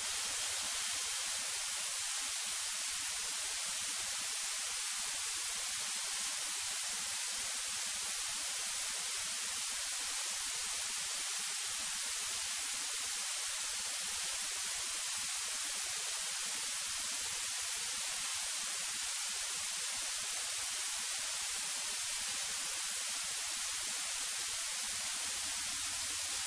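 Steady electronic hiss from the cockpit audio feed, with no engine sound coming through.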